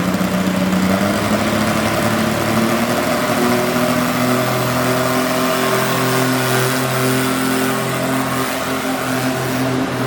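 Pulling garden tractor engine running loud. Its pitch drops to a lower, steady note a few seconds in.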